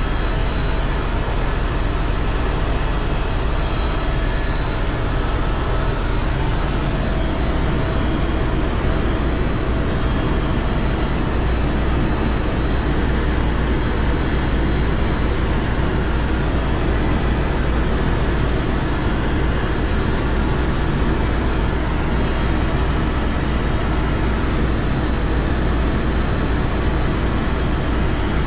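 Helicopter in steady cruise flight: continuous, even engine and rotor noise, heaviest in the deep low end, without change.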